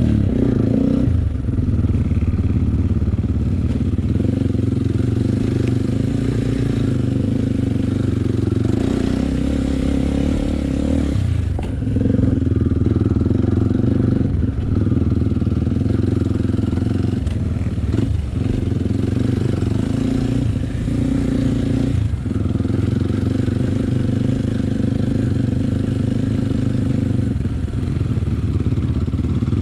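Enduro dirt bike engine running under load while riding, with the engine note easing off briefly several times, around 1, 11, 14, 18 and 22 seconds in.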